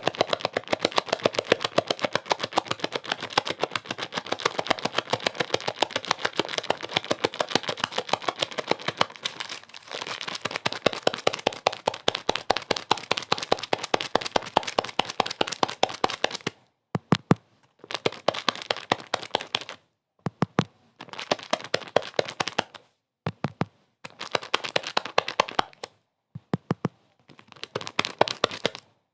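Dense, rapid crackling made of many sharp clicks. It is continuous at first, then a little past halfway breaks into bursts of a second or two separated by short silences.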